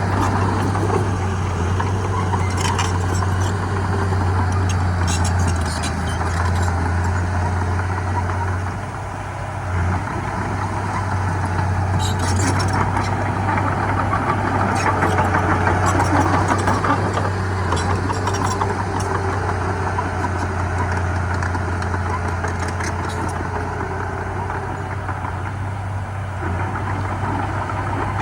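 Heavy diesel engine running steadily with a low drone that dips briefly about nine seconds in, with scattered clicks and rattles over it.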